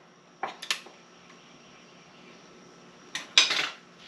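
A few short sharp clicks and a brief scrape of hand tools and metal parts being handled on a manual transmission, the clicks about half a second in and the scrape a little after three seconds.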